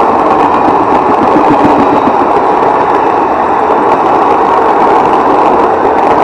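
Blue Indian Railways passenger coaches of an express train rolling past at speed: a loud, steady rumble and rush of steel wheels on the rails, with faint clicks over the rail joints.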